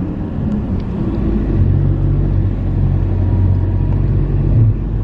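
Motor vehicle engine and road rumble heard from inside the moving vehicle: a steady low hum, with an engine tone that grows stronger about a second and a half in.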